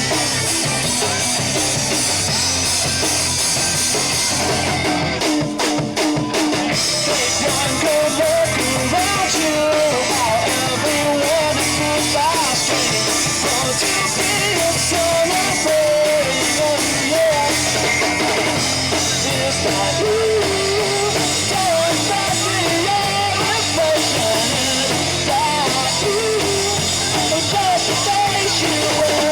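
Live punk-rock band playing loud: electric guitars and drum kit. A few short stop-hits come about five to six seconds in, then a wavering melodic line rides over the band.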